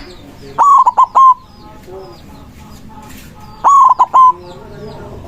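Zebra dove (perkutut) singing: two loud phrases, each of about four short notes that jump up sharply and then hold a steady coo, about three seconds apart. Small birds chirp faintly behind.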